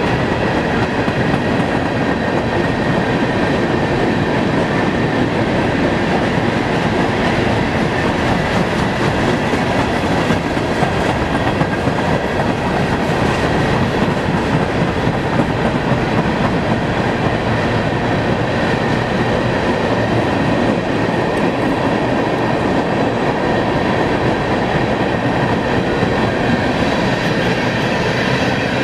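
A train's cars rolling steadily past, wheels clattering over the rails with a constant loud rumble and a faint high ringing from the wheels.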